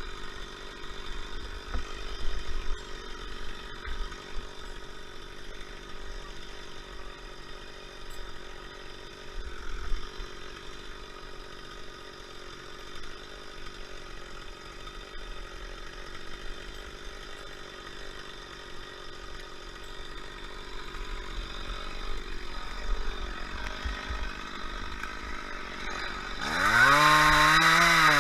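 A chainsaw engine running at a low, steady idle, then revved hard near the end, its pitch sweeping up and then wavering as the throttle is worked.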